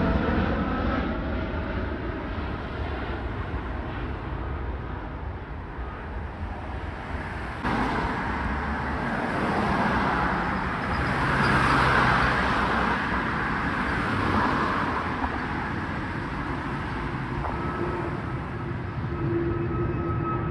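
Jet airliner engines during a takeoff run, a steady rush of engine noise with a whine falling in pitch in the first seconds. The sound changes abruptly about eight seconds in and swells again around twelve seconds.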